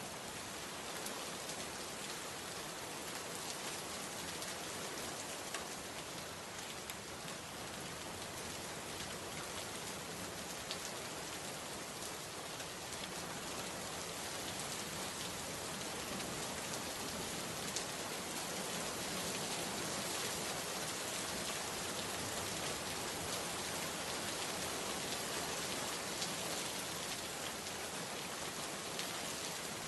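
Steady rain falling, an even hiss of drops on surfaces with scattered individual drop ticks, growing slightly louder about halfway through.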